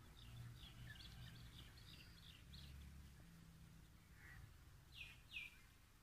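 Faint bird chirps: a quick run of short high chirps over the first three seconds, then two short falling calls about five seconds in, over a low steady hum.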